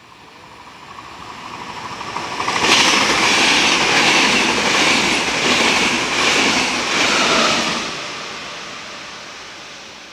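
Electric passenger train passing close by at speed: the noise swells as it approaches, then the coaches rush past loudly for about five seconds with a rhythmic clacking of wheels over the rails, and it fades as the train goes away.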